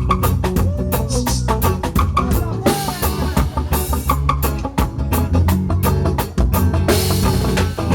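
A band playing the instrumental opening of a song, led by a drum kit with snare and rimshot hits over a steady bass.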